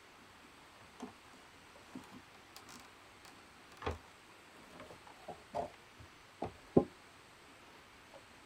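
A series of irregularly spaced knocks and taps, some faint, the loudest about seven seconds in.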